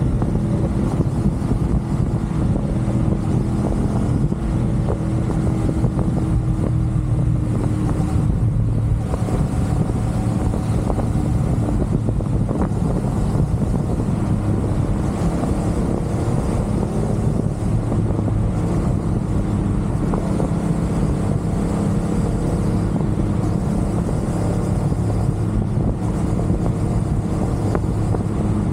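CFMoto 450SR's parallel-twin engine running steadily at expressway cruising speed, with wind noise over the microphone.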